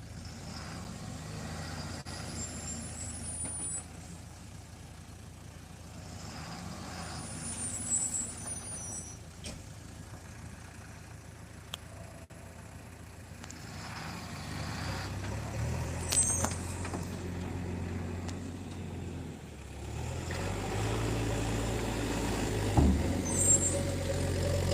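Ashok Leyland 3123R tipper truck's diesel engine running steadily. The engine gets louder and runs harder from about halfway through, and again a few seconds before the end. Short high-pitched squeals or hisses come four times.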